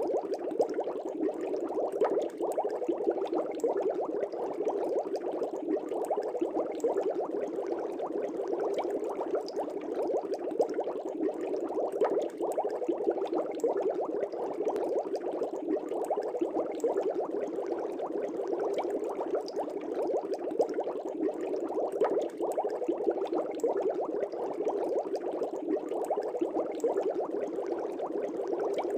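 Fish tank air bubbles bubbling steadily: a dense, even stream of small pops and gurgles in the water.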